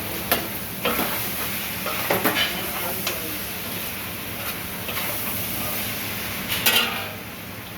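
Food sizzling in a hot pan while being stirred, with scattered scrapes and knocks of the spoon against the pan, the loudest near the end.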